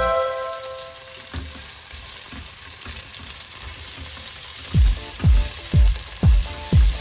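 Onions sizzling as they fry in oil in a pot while being stirred with a spatula. About five seconds in, background music comes in with a heavy kick-drum beat about twice a second.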